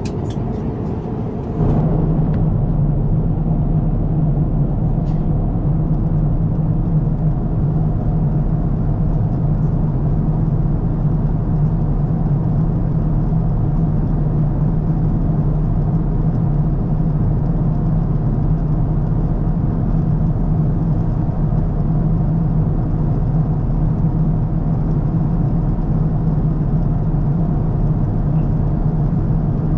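Steady airliner cabin drone, the even rush of engine and airflow noise with a low hum underneath. It steps louder about a second and a half in, then stays level.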